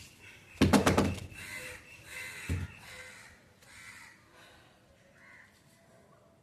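A bird calls several times with short, harsh, repeated calls that fade toward the end. A quick clatter of knocks comes near the start, and a single dull thud about two and a half seconds in.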